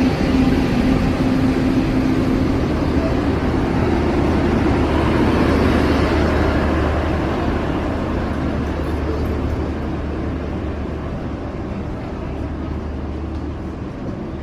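A heavy vehicle running with a steady low engine hum and rumble that slowly fades over the second half.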